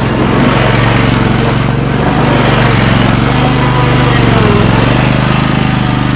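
Zero-turn lawn mower engine running loud and steady while the mower is driven to pop a wheelie.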